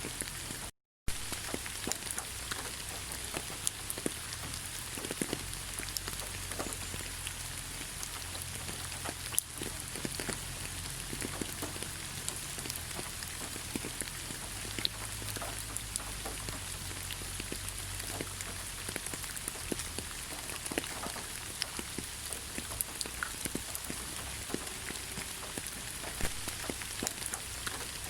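Steady rain in a forest: a constant hiss with many separate drops ticking through it. The sound cuts out completely for a moment about a second in.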